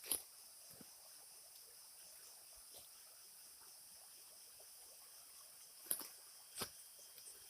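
Steady high-pitched drone of forest insects, with three short sharp clicks or knocks: one at the start and two close together near the end.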